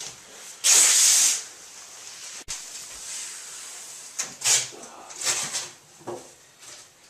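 Short bursts of hissing noise. The loudest lasts just under a second near the start, with shorter hisses about four and a half and five and a half seconds in.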